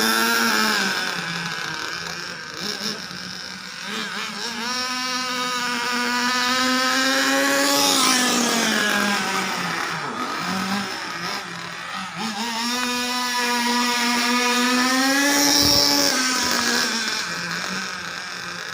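Nitro RC car engine running at high revs, its pitch rising and falling as the car laps past, loudest and dropping in pitch about every eight seconds.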